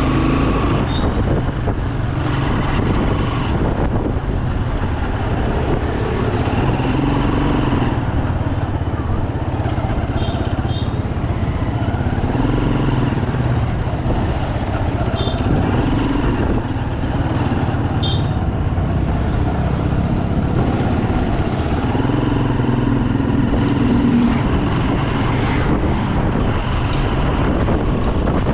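Bajaj Pulsar 200 motorcycle's single-cylinder engine running under way, mixed with road and wind noise, its tone coming and going every few seconds as the speed changes.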